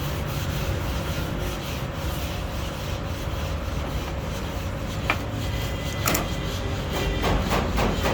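Abrasive rubbing, a steady scraping hiss, with two short sharp clicks about five and six seconds in. Near the end it turns into quick repeated strokes, about four a second.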